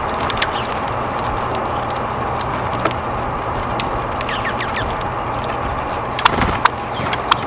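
Outdoor winter ambience where small birds are feeding: a steady hum and hiss underneath, scattered sharp ticks, and a few short, falling bird chirps about halfway through.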